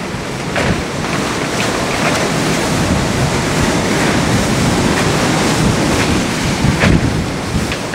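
Windstorm blowing through an abandoned building: a loud, steady rush of wind with rumbling gusts, and a few brief rattles or knocks of loose debris, the loudest near the end.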